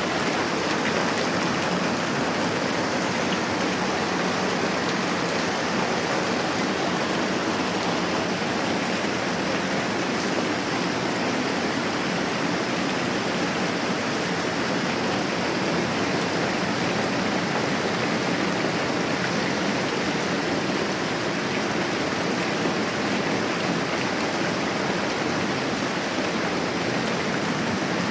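Steady moderate rain falling, an even, unbroken hiss.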